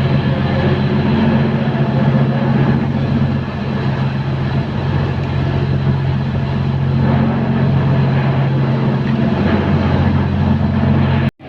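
A train engine running steadily, a loud even low hum over rumbling noise. It cuts off abruptly near the end.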